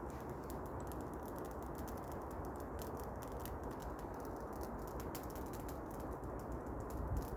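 Small campfire of birch bark and dry kindling twigs burning, with frequent irregular sharp crackles and pops over a steady low hiss.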